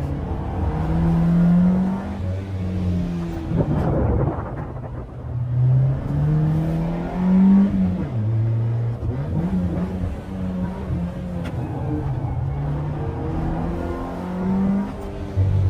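Peugeot 206's four-cylinder engine with a straight-piped exhaust and open intake, pulling hard under load: its pitch climbs and drops again several times as it is driven through the gears and lifts off, with short noisy surges at some of the drops.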